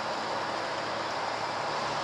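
Boeing 747-400 airliner on approach, its jet engines giving a steady roar overhead.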